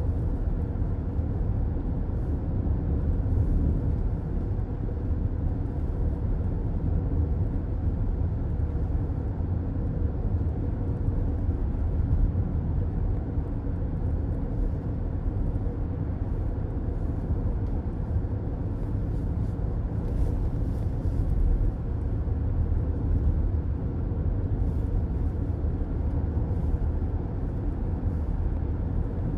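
Steady road noise of a moving car heard from inside the cabin: a low, even rumble of tyres and engine.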